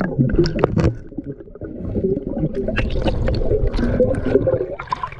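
River water gurgling and sloshing close to the microphone, with scattered short knocks and splashes.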